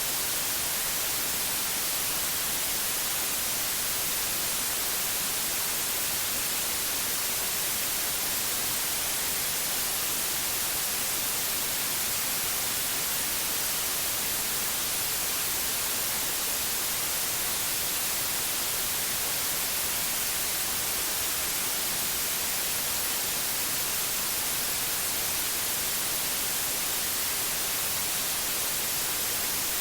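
Steady electronic white noise, an even hiss loudest in the high frequencies, with no change or break.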